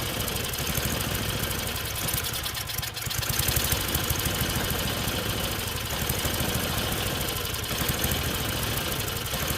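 Tecumseh single-cylinder four-stroke snowblower engine running with the choke on, dipping briefly just before three seconds in and then picking back up. It runs unevenly and surges, which the owner blames on the carburetor.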